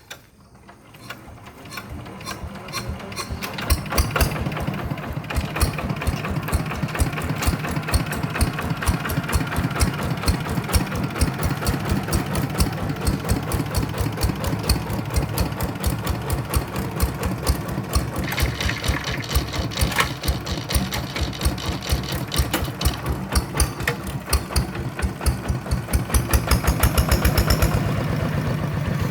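Kubota RV125-2 single-cylinder diesel engine of a two-wheel hand tractor starting up and running with a fast, even knocking beat, coming up to speed over the first few seconds and quickening near the end.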